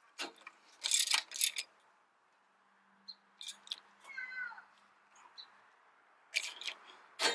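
Socket wrench and tools clicking and knocking against metal as the belt adjuster bolts are tightened. About four seconds in comes a brief high squeak that falls in pitch.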